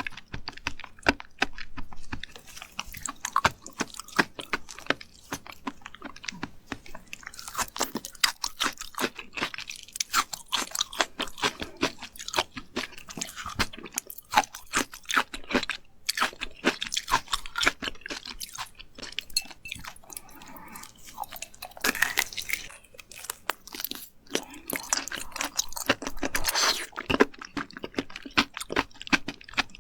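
A person chewing raw seafood close to the microphone, with many rapid, crisp crunches and wet mouth sounds.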